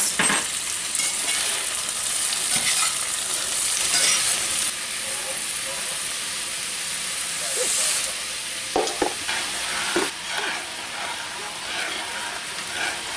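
Shrimp and vegetables sizzling in a hot cast iron skillet as they are tossed, a steady frying hiss. Partway through, rice is poured into a pot of boiling water and stirred, with a few short clinks and scrapes of the utensil against the pot.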